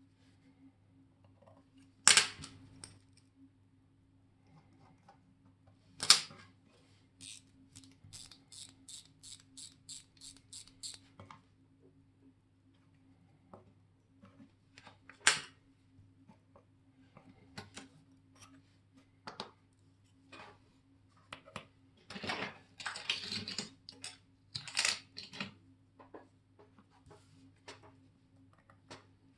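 Small sharp clicks and taps of hand work on a mechanical watch: single loud clicks, a run of about a dozen evenly spaced clicks, about three a second, and a busier cluster of taps near the end, over a faint steady low hum.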